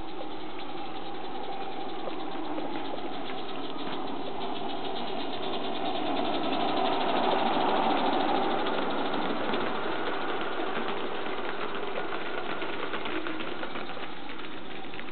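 Accucraft model locomotive 'Mannin' running along its track, with a fast even ticking. It grows louder to a peak about halfway through, then fades as it passes.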